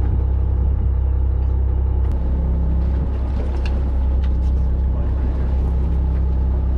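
A fishing charter boat's engine running steadily: a low, even drone, with a few faint ticks above it.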